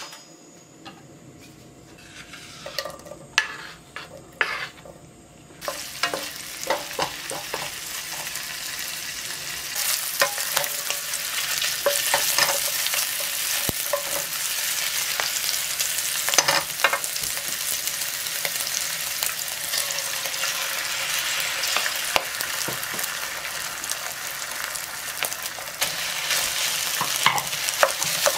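Sliced wiener sausages frying in hot oil in a frying pan, with a wooden spatula knocking and scraping against the pan. After a few scattered knocks, the sizzle sets in about six seconds in and grows louder around ten seconds in.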